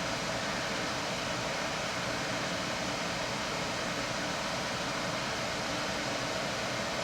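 Dehumidifier running steadily on high with its compressor just cut in: an even whir of fan air with a faint steady hum.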